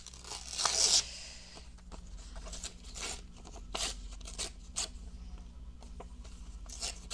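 Sheets of paper being handled: one loud swish of paper sliding about a second in, then scattered soft rustles and light taps as the pieces are shuffled and set down.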